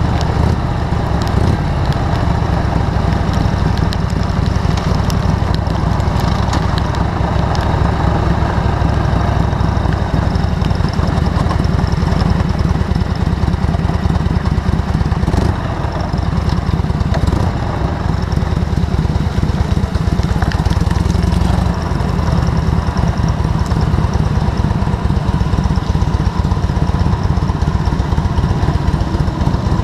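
A motor vehicle's engine running steadily with a heavy low rumble.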